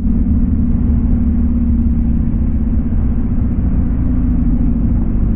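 Motorcycle engine running at a steady pitch while riding, over heavy low-end noise.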